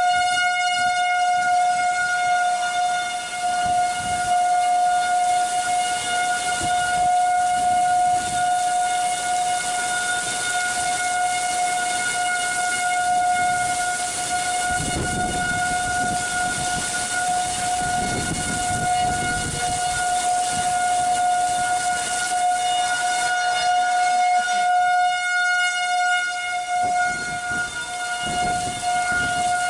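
Storm warning siren holding one steady pitch throughout, over a steady hiss of wind and rain.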